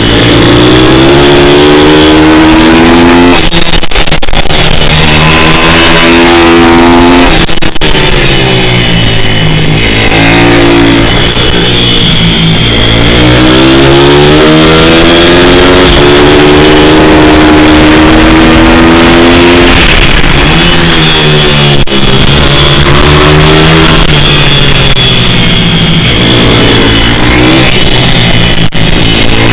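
Pit bike's single-cylinder four-stroke engine (150–160 cc class) revving hard, its pitch repeatedly climbing through the gears and dropping off for corners.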